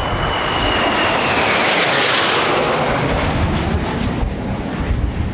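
Blue Impulse Kawasaki T-4 jet passing overhead: a whine that falls in pitch as the jet roar swells to a peak about two seconds in, then fades away. Strong wind rumbles on the microphone throughout.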